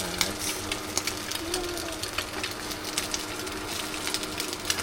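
Food frying in a pan, with irregular crackles and pops over a steady low hum.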